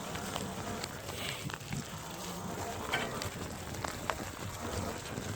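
Electric bike rattling over rough forest ground: a steady low rumble with many scattered clicks and knocks.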